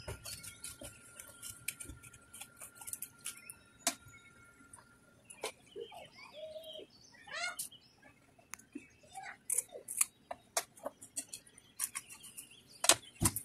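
Scraping and sharp clicking as whole pomfret are handled and cleaned on a cutting board, with the loudest clicks near the end. Birds chirp in the background, with a quick trill about halfway through.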